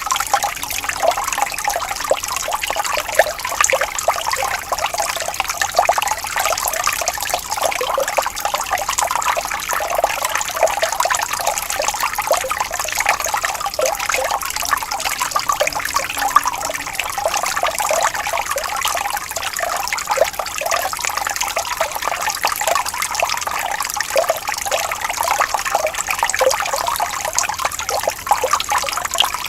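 Water flowing and trickling gently, a steady babbling of small splashes.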